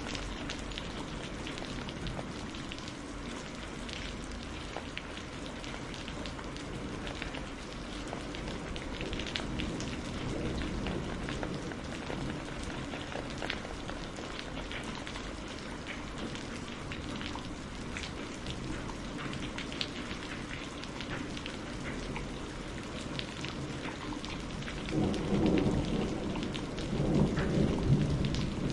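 Steady rain falling, with many separate drops striking a surface. Near the end a low rumble of thunder swells up twice.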